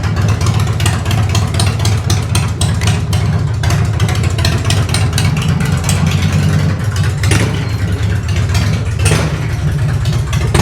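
Harley-Davidson Dyna's V-twin engine running loudly just after being started.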